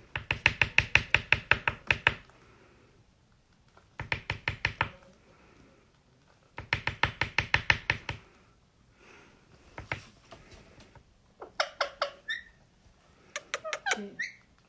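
Indian ringneck parrot tapping its beak in rapid runs of knocks, about six a second, as part of its courtship dance. There are three bursts of a second or two each, then near the end a few clicks with short chirps.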